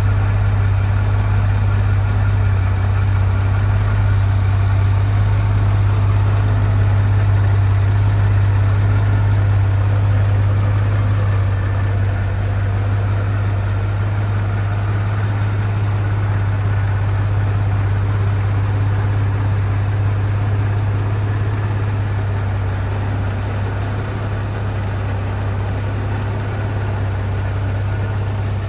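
1948 Chevrolet Fleetline Aerosedan's 216 cubic-inch inline-six engine idling steadily, with a deep, even hum.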